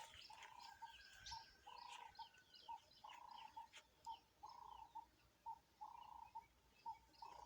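Faint birdsong: a wild dove cooing over and over in a steady rhythm, a longer coo then shorter ones about every second and a half, with small birds chirping faintly higher up.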